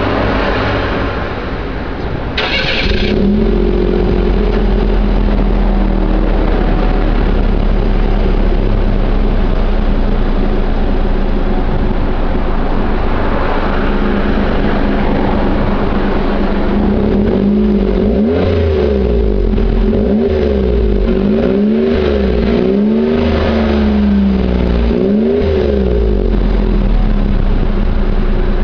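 Suzuki Wagon R's three-cylinder kei engine breathing through a Fujitsubo aftermarket muffler, heard from outside the car. It starts about three seconds in and settles to a steady idle, then is revved in a series of about seven quick throttle blips in the second half before settling back to idle.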